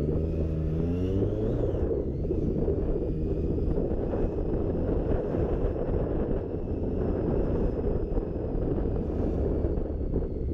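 Motorcycle under way on the road: steady engine and road rumble with wind rushing over the microphone.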